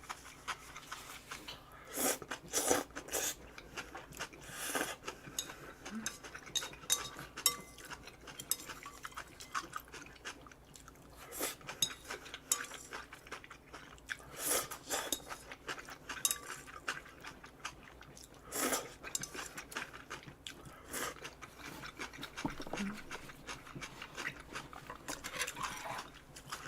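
Eating sounds: utensils clicking against dishes, with chewing, in scattered short clicks and rustles.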